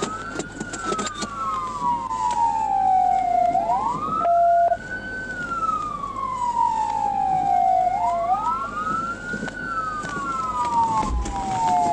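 Police car siren wailing, each cycle a quick rise then a slower fall, repeating about every four seconds. A short steady beep sounds about four seconds in.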